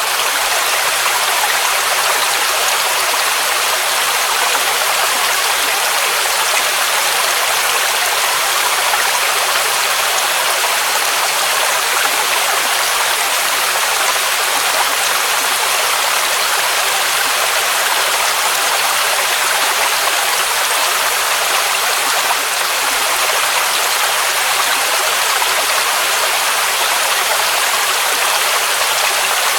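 Waterfall rushing in a steady, unbroken roar of falling water, its hiss strongest in the mid and high range with little deep rumble.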